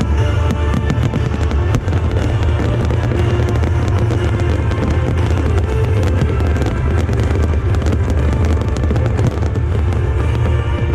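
Fireworks going off in a dense, rapid run of crackles and bangs over loud music with a heavy bass.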